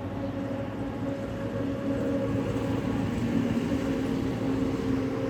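A vehicle engine running steadily, a low rumble with a constant hum.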